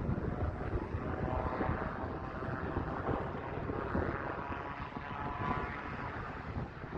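Lockheed C-130 Hercules four-engine turboprop coming in to land, its engine and propeller drone a steady tone over heavy wind rumble on the microphone.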